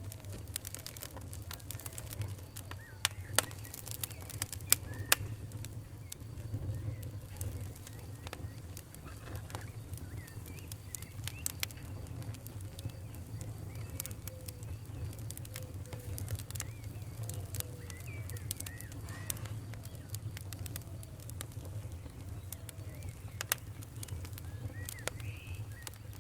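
Wood fire burning in a fireplace: a steady low rumble of flames with continual small crackles. Sharp pops and snaps stand out, the loudest about three to five seconds in and once more near the end.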